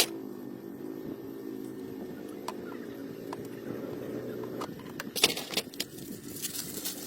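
A motor hums steadily, with scattered clicks and a burst of rattling about five seconds in.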